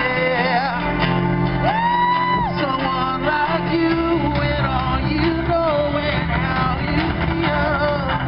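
Live amplified rock music: a lead singer's vocal line, with a long held note about two seconds in, over electric guitar and bass.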